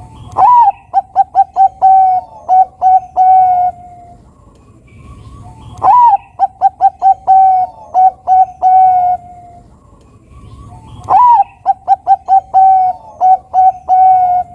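Bangkok-type perkutut (zebra dove) singing three full songs about five and a half seconds apart. Each song opens with a swooping note, then runs into a quick string of short coos and ends on a few longer held coos.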